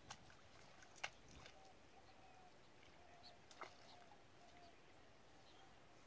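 Near silence: faint rural outdoor quiet with a few distant bird calls and a few soft clicks.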